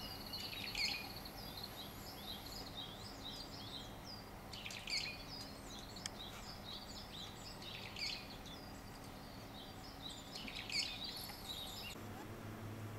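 Small birds calling: a steady run of short, high chirps, with busier flurries about half a second in and around five, eight and eleven seconds.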